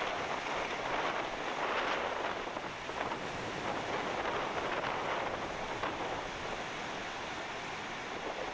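Water rushing and splashing past a windsurf board moving through rough water, mixed with wind buffeting the GoPro microphone; the noise swells and eases in irregular surges.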